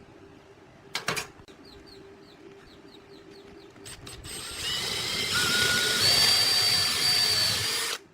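Angle grinder running, a loud whine that builds over a couple of seconds and cuts off abruptly near the end, after a couple of sharp clicks about a second in.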